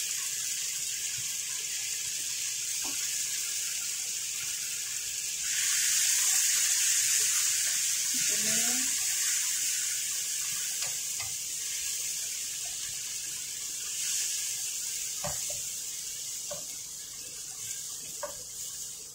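Freshly added chopped tomatoes sizzling in hot oil in a frying pan, a steady hiss that gets louder about five seconds in. A few light knocks of a wooden spatula against the pan come in the later part as the tomatoes are stirred.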